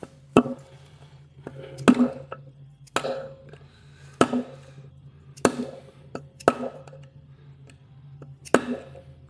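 Hand tools knocking and tapping on parts during top-end assembly of an LS V8 engine: about seven sharp knocks, roughly a second apart, over a low steady hum.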